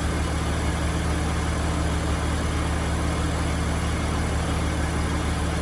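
2005 BMW 330Ci ZHP's 3.0-litre inline-six engine running steadily with an even low hum.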